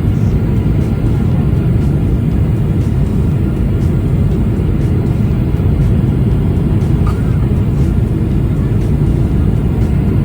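Steady, loud low rumble of a Boeing 777-300ER airliner's engines and airflow, without letup.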